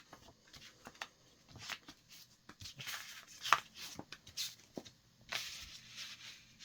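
A paper leaflet being opened and its pages handled: a series of short crinkling rustles with small clicks, busiest in the middle and again near the end.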